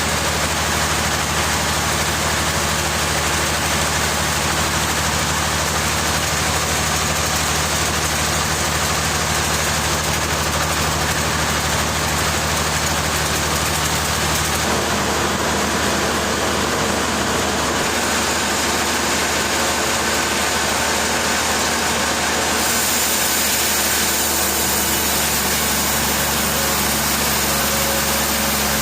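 Machinery engine running steadily, with a low hum and a dense mechanical noise; its tone shifts about halfway through and again later.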